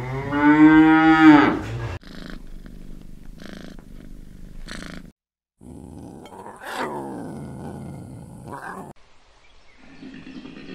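A string of animal calls, one after another. A cow moos loudly in the first two seconds. Fainter calls follow, then a lion calls around the middle. A new low call begins near the end, when a koala is shown.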